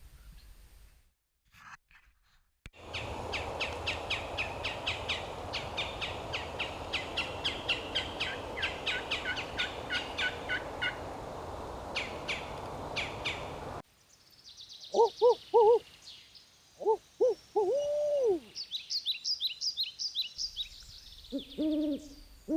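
Woodland birdsong: a long run of rapid high chirps and trills. After an abrupt cut come several low hooting calls, one ending in a drawn-out falling note, typical of an owl.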